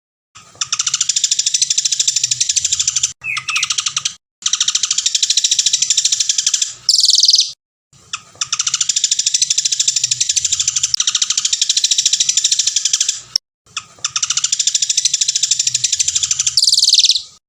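A songbird singing long, rapid trills: evenly pulsed phrases of two to five seconds with short breaks between them, some ending in a louder, higher burst. This is the long, clear 'tembakan' song used as a masteran to teach captive songbirds.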